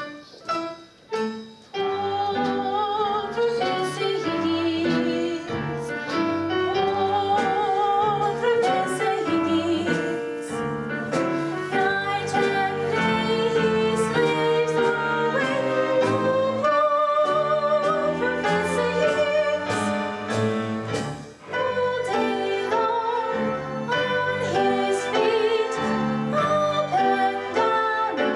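A song from a stage musical: singing voices with a wide vibrato over an orchestral accompaniment. Short plucked string notes in the first two seconds lead into the singing, and the music dips briefly about two-thirds of the way through.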